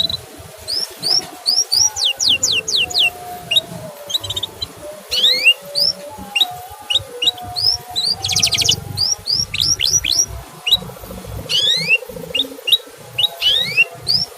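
Male canary chirping: sharp, high notes sweeping quickly downward, some single and some in quick runs of four or five, with a brief fast trill about eight seconds in.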